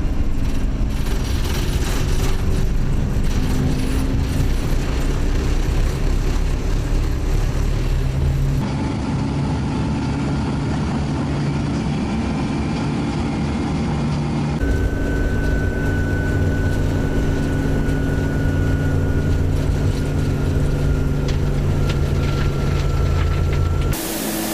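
Vehicle engine running steadily, heard from inside the vehicle, with a faint thin whine slowly falling in pitch in the second half. The sound changes abruptly twice partway through.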